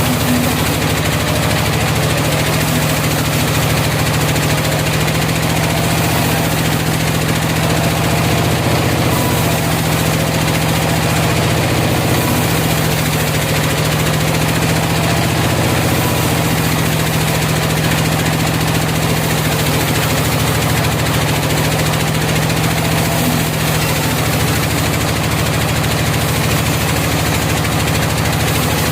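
Sawmill machinery running steadily without a break: a low engine drone with a broad hiss over it.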